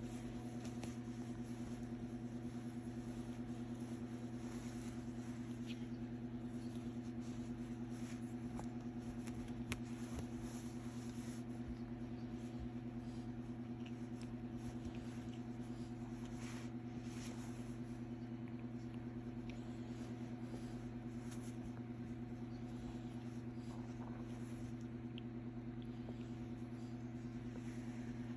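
A steady low hum that holds the same pitches and level throughout, with a few faint clicks over it.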